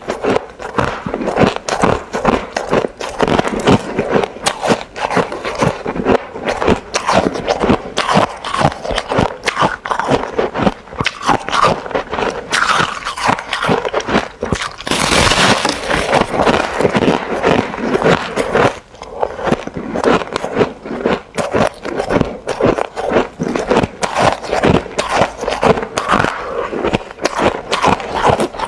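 A person biting and chewing ice, a fast, continuous run of crunches and crackles. A louder, denser burst of crunching comes about halfway through.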